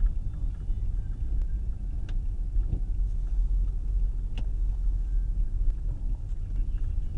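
Car driving: a steady low rumble of engine and tyres on the road, with a few faint clicks.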